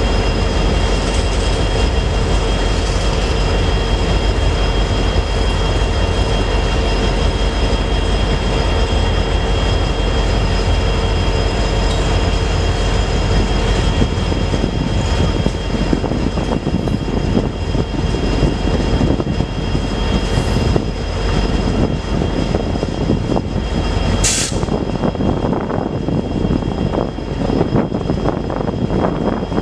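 Freight train rolling past: a steady, loud rumble of cars on the rails with thin, steady squealing tones from the wheels. A single sharp clank comes about twenty-four seconds in, and the rolling turns rougher and clattery after that.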